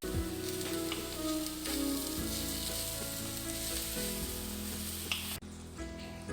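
Carrot stir-fry with grated coconut sizzling in a pan as it is stirred. The sizzling cuts off suddenly near the end.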